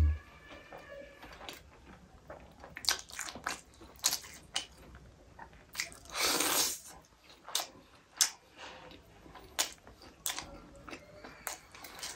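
Close-up mouth sounds of a person eating rice and chicken curry by hand: chewing with many short lip smacks and mouth clicks, and a longer noisy mouth sound about six seconds in as a handful of food goes into the mouth.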